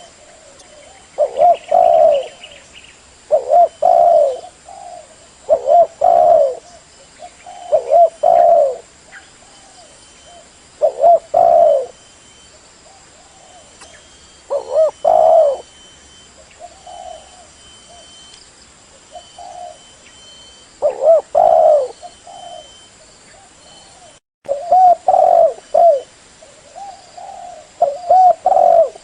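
Spotted dove (tekukur) cooing: a low, repeated coo phrase of a few notes, roughly one every two seconds, with a few longer pauses between phrases. Near the end the sound cuts out completely for a moment before the cooing resumes.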